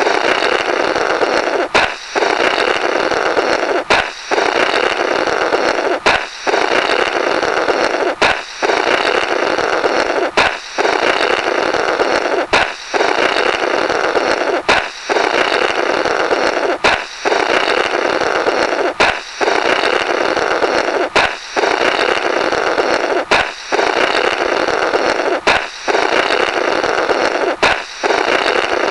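A balloon popping, then a raspy, blubbering 'blorrrt' as someone blows through the burst rubber, repeated as a loop about every two seconds.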